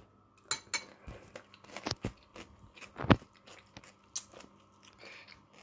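A mouthful of fresh cucumber salad in sour cream being chewed, with a run of irregular crunches and one louder crunch about three seconds in.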